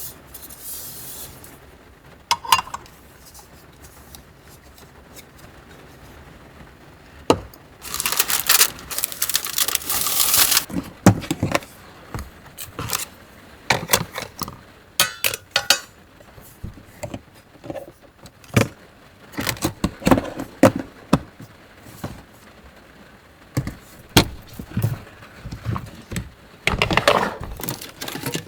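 Small objects being handled at close range: a string of clinks, taps and light scrapes, like dishes and utensils being moved, with a burst of rustling about eight seconds in and again near the end.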